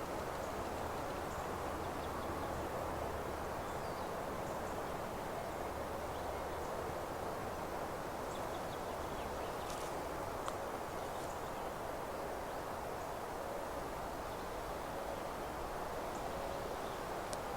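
Open meadow ambience: a steady rushing hiss, with faint, scattered high chirps of small birds and a couple of brief clicks about ten seconds in.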